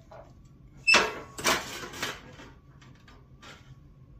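Sheet metal pieces of a duct fitting clanging and rattling as they are handled and worked into the seam: a sharp metallic clang with a brief ring about a second in, a stretch of rattling and scraping just after, and a lighter knock later.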